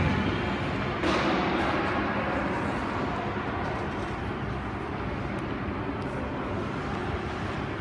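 Ice rink noise during a youth hockey game: a steady wash of skates on ice and arena sound, with a sharp knock about a second in, like a puck or stick striking.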